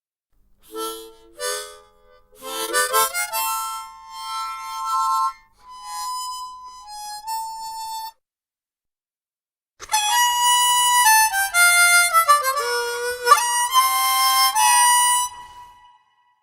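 Harmonica playing two short phrases: first a few quick notes and then held chords, then after a brief pause a faster run of bending, sliding notes and chords.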